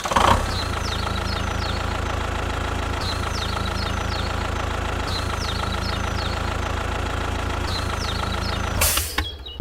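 An engine idling steadily with an even, low pulse. It starts suddenly and cuts out shortly before the end, with short high chirps sounding over it.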